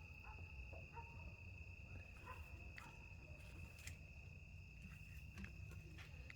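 Crickets trilling in the dark, heard as one faint, steady high-pitched tone, with a few faint clicks over it.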